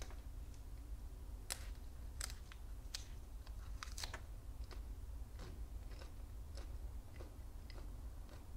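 Raw magnolia petals being bitten and chewed: a string of sharp, crisp crunches at an uneven pace, thicker in the first half.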